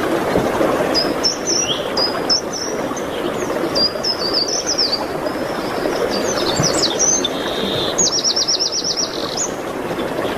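A songbird singing high, quick chirps and slurred notes, ending in a fast, even trill about eight seconds in, over a steady rushing background noise.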